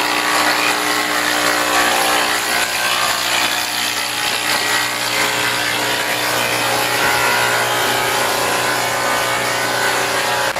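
Sawmill saw running and cutting wood: a steady motor hum under the dense rasp of the cut.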